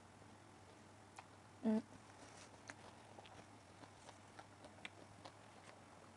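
Faint, scattered clicks of a person chewing and eating, with a short closed-mouth hum just under two seconds in.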